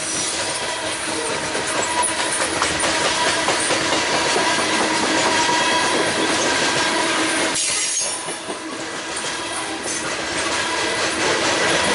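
Railroad cars rolling by on steel wheels, a steady rumbling rush with a thin steady squeal above it. The sound dips briefly about eight seconds in.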